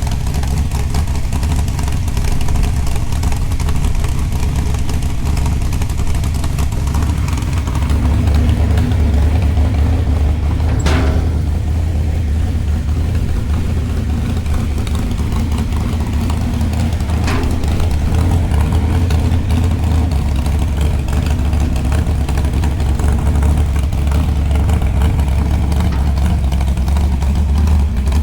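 Truck running steadily on the move, a deep low rumble throughout, with two brief knocks, one about eleven seconds in and one about seventeen seconds in.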